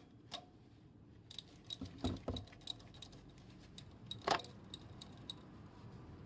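Metal hand tools and parts clinking and knocking: a run of sharp clicks with a light metallic ring, two duller knocks about two seconds in, and the loudest clink a little past four seconds.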